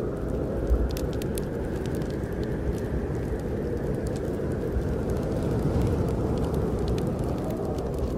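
Steady low rush of snowstorm wind, with scattered sharp crackles and pops from a fireplace fire.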